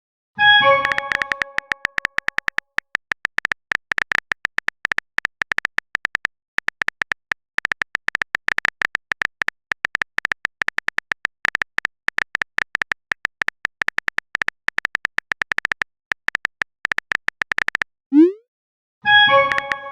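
Phone chat-app sound effects. It opens with a notification chime of several bell-like tones that ring out for about a second. Then comes a long run of rapid, clicky keyboard-typing ticks with a few short pauses. About 18 seconds in there is a short rising blip, and then a second chime.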